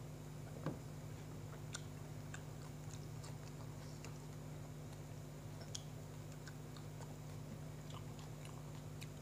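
A person chewing a mouthful of sandwich, with soft scattered mouth clicks and one sharper click under a second in, over a steady low hum.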